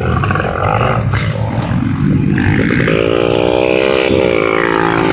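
Small off-road motorcycle engine running on the throttle, getting louder about two seconds in and then holding a steady, higher note.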